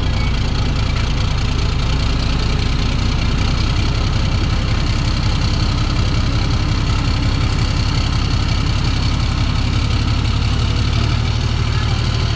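Heavy diesel truck engine running steadily at low revs close by, a deep even rumble.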